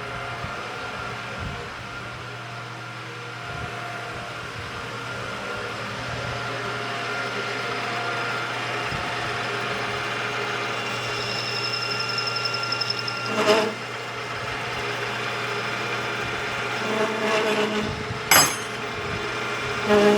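Metal lathe running with a steady hum as a parting tool cuts a thin ring off a length of steel pipe, with a thin high squeal from the cut partway through. Two short sharp knocks come in the second half.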